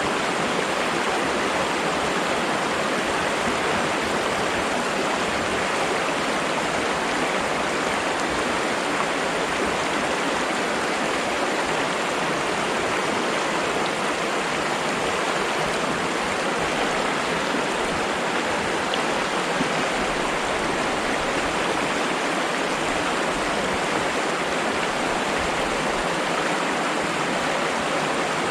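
Flowing water rushing steadily, an even, unbroken hiss with no change in level.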